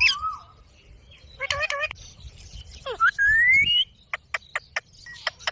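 Indian ringneck parakeet calling: a gliding call, a few short chattering calls, then a long rising whistle about three seconds in, followed by a quick run of sharp clicks near the end.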